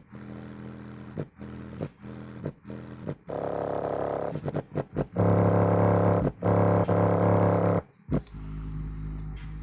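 A 6-inch Samsung subwoofer driver playing bass notes in free air off a big amplifier, in short repeated pulses with brief gaps. About five seconds in it gets much louder and harsher for a couple of seconds, the cone using all of its suspension travel on the low notes without quite bottoming out.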